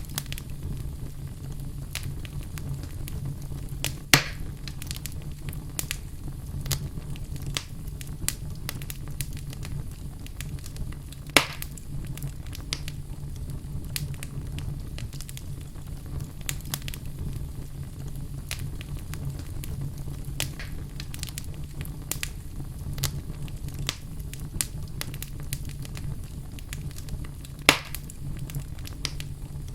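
Wood fire burning in a fireplace: a steady low rumble of flames under frequent small crackles, with three louder pops from the burning wood, at about four seconds, eleven seconds and near the end.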